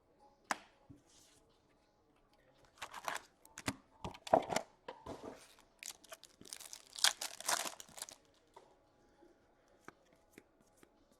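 A hockey card pack's wrapper being torn open and crinkled: bursts of tearing and rustling over several seconds, loudest near the middle, after a single click near the start.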